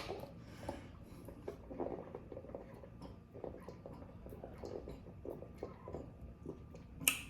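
A person eating close to the microphone: soft, irregular wet clicks and smacks of chewing.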